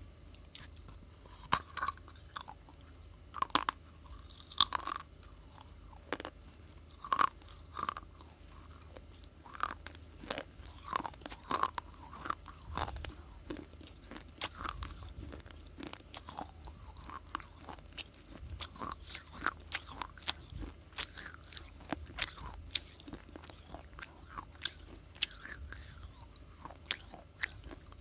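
A person biting and chewing crunchy baked clay close to the microphone. The crunches are sharp and irregular, sometimes several in quick succession.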